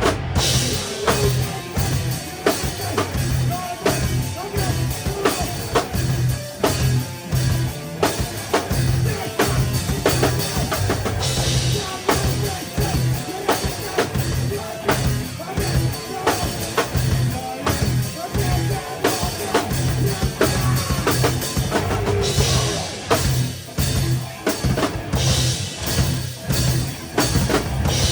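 A live rock band playing loudly, with the drum kit up close: a driving kick and snare beat, and crash cymbals rising over it a few times, about a third of the way in and near the end.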